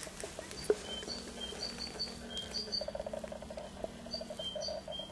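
Small birds chirping in short, repeated high notes, with a rapid pulsing note under them from about the middle on and a steady low hum throughout. A sharp tap a little under a second in is the loudest sound, with a few lighter clicks after it.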